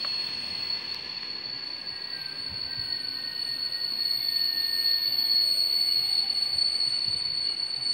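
Approaching passenger train heard along the rails: a steady high-pitched ringing of the rails and wheels that grows louder over the first five seconds as the train draws near.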